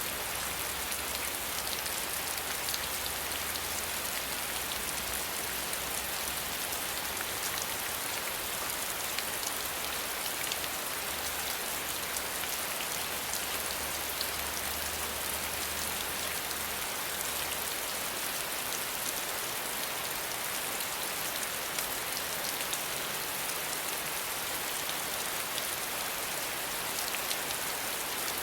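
Steady rain falling: an even hiss scattered with many small raindrop ticks, with no lull or change.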